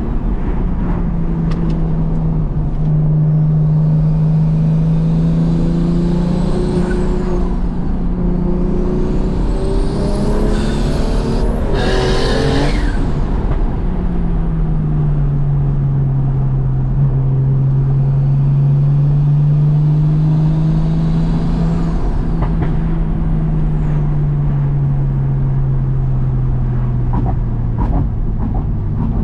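BMW M2 Competition's single-turbo 3.0 L straight-six with a straight-through titanium exhaust, driven at steady revs. The revs climb briefly about ten seconds in and end in a short loud burst of noise, then settle into a steady drone that slowly falls.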